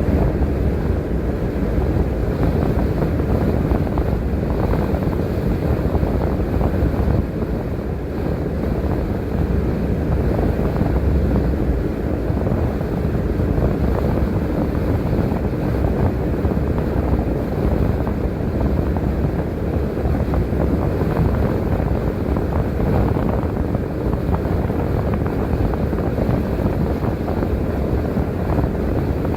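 Steady low rumble of a transit bus on the move, engine and road noise heard from inside the bus.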